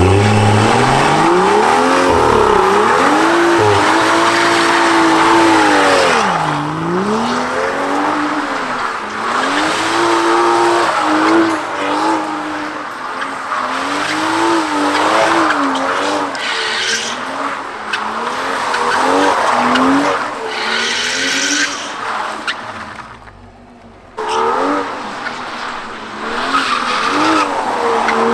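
Car engine revving hard, its pitch swinging up and down, over loud squealing of spinning tyres, as in a burnout. The sound drops away briefly near the end, then picks up again.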